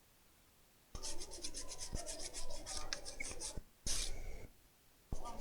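Brush scrubbing a laptop motherboard in quick, short scratchy strokes, cleaning flux and dust off the board. The scrubbing starts about a second in, stops briefly a couple of times, and picks up again near the end.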